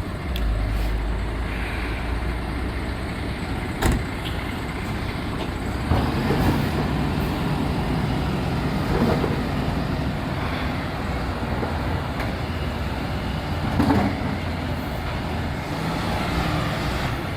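Recycling truck's diesel engine running steadily, with a sharp knock about four seconds in.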